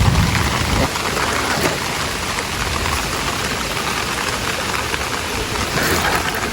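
Heavy rain falling in a steady hiss, with a low rumble that stops about a second in.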